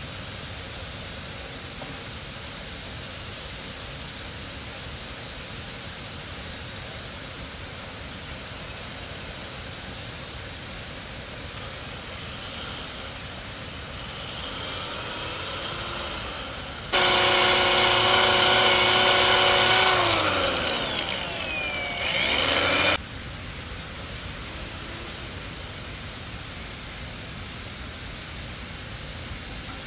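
A high-speed power tool motor starts abruptly with a loud whine, runs steadily for about three seconds, then winds down in pitch as it slows. It is run up again briefly and cuts off suddenly, over a steady hiss.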